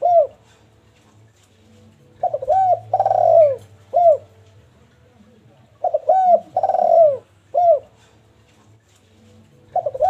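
Spotted dove (derkuku) cooing: a repeated phrase of short rounded coos and one longer falling coo, about every four seconds. Two full phrases are heard, with the next one starting near the end.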